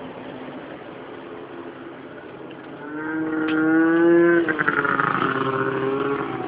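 Snowmobile engines approaching. About three seconds in, a steady engine note grows loud and rises slightly in pitch. It then gives way to a rougher, rapidly pulsing engine sound as the machines arrive.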